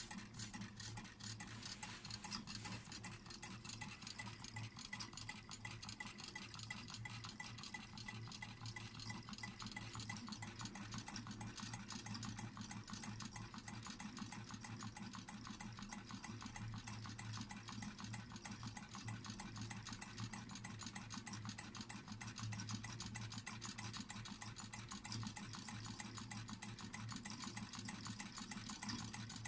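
Homemade water-cooled Stirling engine, built from a WD-40 spray can and a Red Bull can, running steadily with a fast, even ticking rattle over a low hum.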